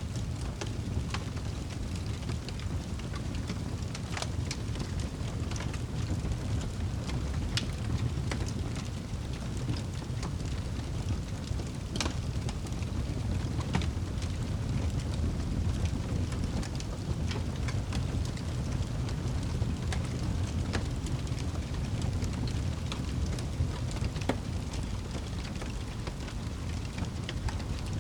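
Wood fire burning in a fireplace: a steady low rumble of flame with scattered sharp pops and crackles, several a second at irregular intervals.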